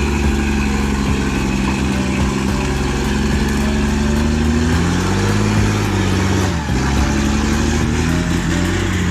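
Large truck engine labouring under load, its pitch sagging about six and a half seconds in and then climbing again as it revs.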